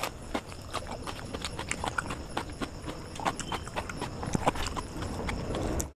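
Close-miked mouth sounds of eating biryani and chicken by hand: chewing and lip-smacking, heard as a run of short, irregular clicks.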